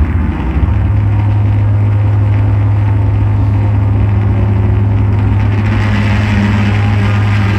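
Live electronic drone noise: a loud, steady low hum under a haze of noise, the noise growing brighter and harsher about two-thirds of the way through.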